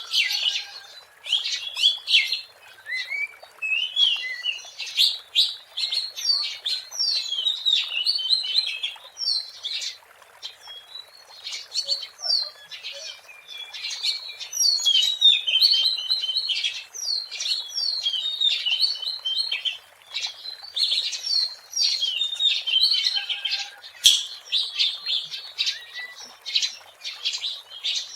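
Oriental magpie-robin singing: a fast, varied run of whistles, chirps and trills that goes on almost without a break, with short lulls about ten and twenty seconds in.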